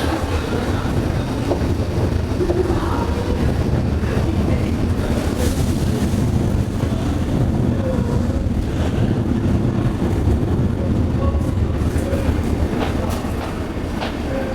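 Toei 5300 series electric train running, heard from inside the car: a steady, loud rumble of wheels and running gear on the rails, with a few faint clicks.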